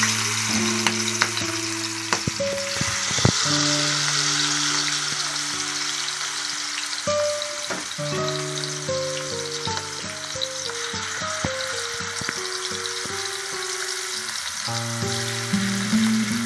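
Food frying in hot oil in a pan, a steady sizzle with a few sharp knocks of a spatula in the first few seconds. Melodic background music plays under it.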